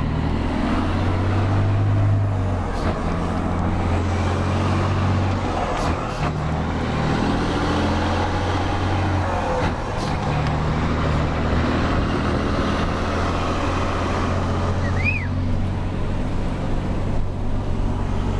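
Scania 112 truck's six-cylinder diesel engine running under way, heard from inside the cab: a steady low drone that steps up and down in pitch several times. There are a few sharp knocks, and a brief high chirp about 15 seconds in.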